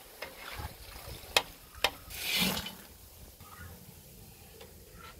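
Soya chunks deep-frying in oil in a large iron wok, with a metal slotted ladle knocking sharply against the wok twice, followed by a brief hissing rush.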